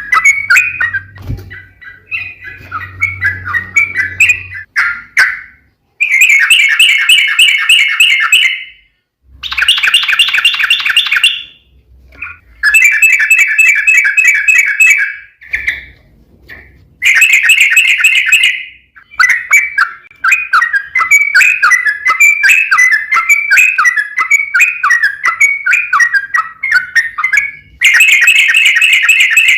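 Yellow-vented bulbul (trucuk) singing in rapid, bubbly chattering phrases. Several bursts of two to three seconds come with short pauses between them, then one longer unbroken run in the second half.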